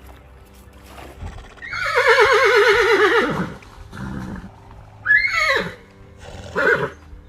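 Horse whinnying: one long call with a trembling pitch that falls away, followed by two shorter calls.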